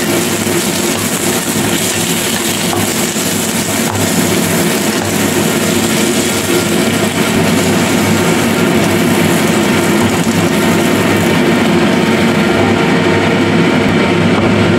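Sliced onions sizzling in hot oil in a nonstick wok while a spatula stirs them, over a steady low mechanical hum. The sizzle grows a little louder about halfway through.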